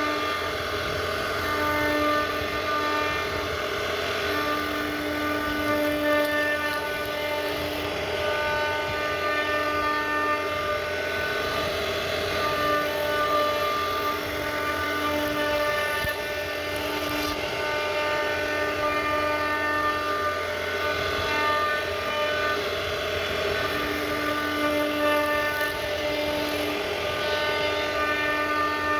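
CNC router spindle running and carving wood: a steady whine over cutting noise that strengthens and eases every second or two as the load on the bit changes.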